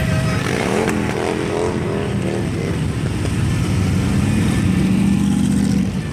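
Harley-Davidson motorcycles' V-twin engines running together in a loud, steady low rumble.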